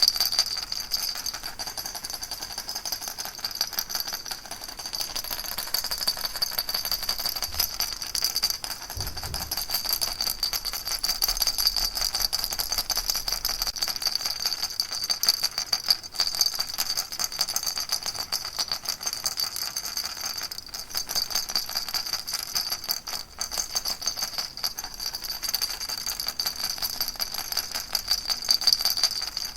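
Baby rattle shaken without pause: a dense, even stream of small clicks and jingles.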